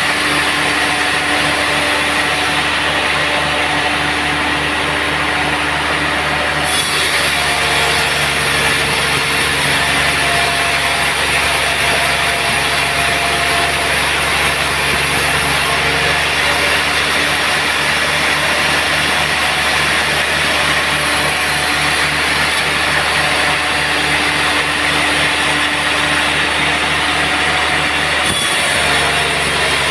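Sawmill running steadily, its engine droning while the saw cuts through a teak log. The sound shifts about a quarter of the way in and again near the end, as the cut changes.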